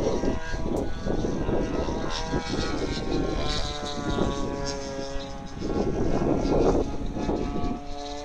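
Strong wind gusting on the microphone, with a steady droning hum of several tones beneath it.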